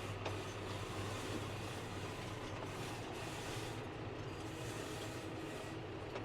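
Tractor engine running steadily at low revs with a constant low hum, while being parked up.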